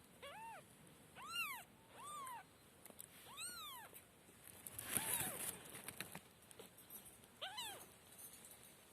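Kitten meowing: about six high, separate meows spread over several seconds, each rising and then falling in pitch. The loudest comes about five seconds in and is rougher.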